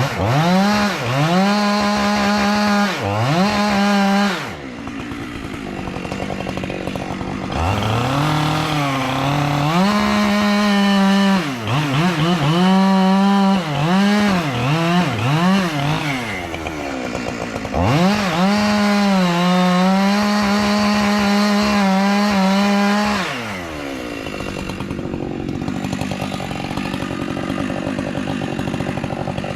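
Chainsaw running at full throttle in several long stretches as it cuts into a pine tree, with quick revs up and down in between; near the end it drops back to idle.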